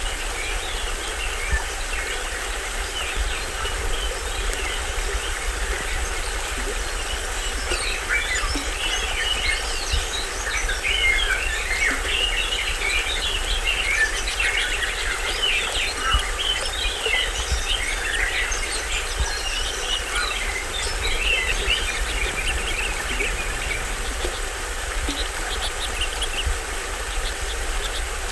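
Small stream waterfall splashing steadily, with many forest birds chirping over it; the chirping is busiest in the middle stretch.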